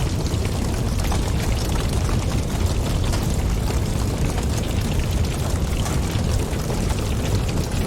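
Wood fire crackling in a fireplace: a dense scatter of small pops and snaps over a steady low rumble of flames.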